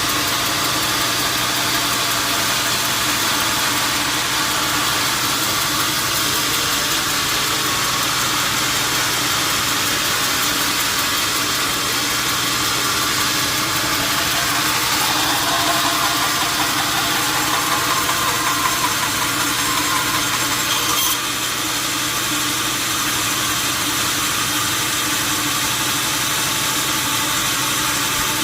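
Steady mechanical running noise with a low hum. For a few seconds past the middle a wavering higher tone joins it, then cuts off suddenly.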